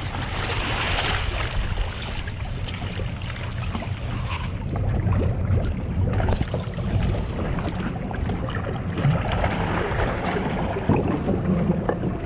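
Steady wind and water noise on a small boat, with scattered small knocks.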